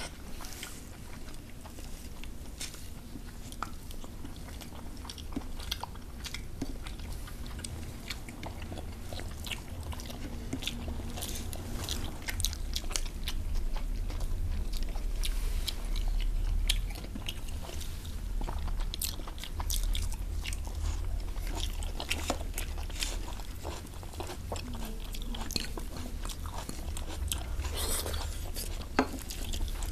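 Close-miked eating sounds: chewing and biting of rice and curry eaten by hand, with many short wet clicks and crunches.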